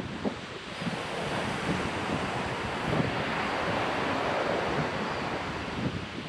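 Ocean surf breaking and washing up a beach, swelling about a second in and easing near the end, with wind buffeting the microphone.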